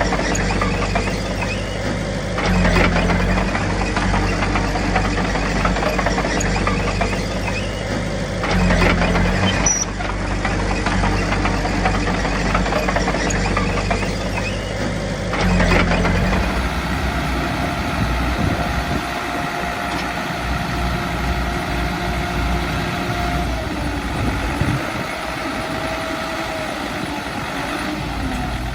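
Diesel engines of heavy earthmoving machinery running. They rev up in three surges a few seconds apart, then settle to a steadier, lower running sound about halfway through.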